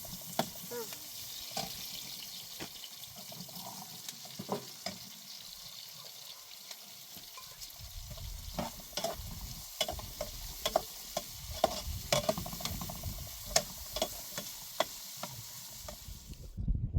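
Food frying in a pan with a steady sizzle, and irregular clicks and scrapes of stirring against the pan. The sizzle cuts off suddenly near the end.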